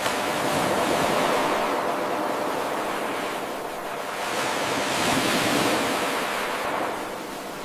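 Ocean waves washing onto a shore: a steady rush of surf that swells and falls back twice.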